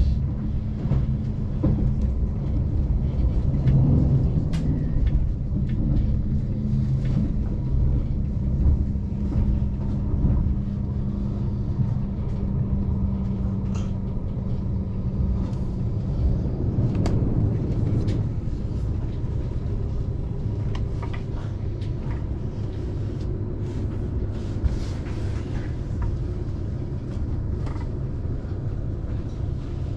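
Passenger train running on the line: a steady low rumble with a held hum and a few faint clicks and knocks.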